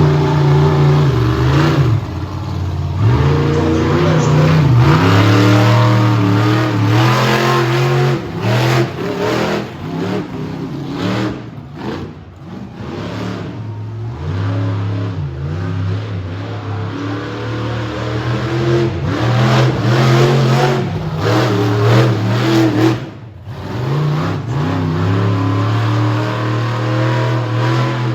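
Monster truck engine revving hard, over and over, its pitch climbing and falling with the throttle. It drops away briefly twice, about midway and near the end.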